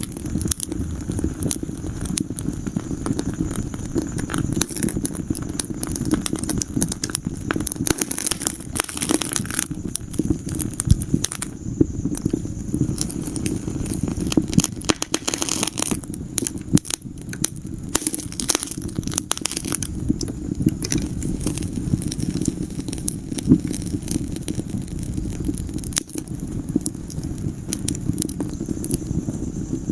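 Wood fire in a fireplace crackling, with dense irregular pops and snaps over a steady low rush of flames.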